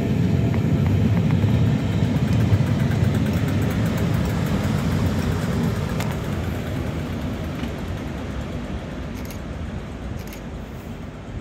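Passenger charter train hauled by preserved class 86 electric locomotives rolling past on the rails, a steady rumble of wheels and coaches that fades steadily as the train draws away.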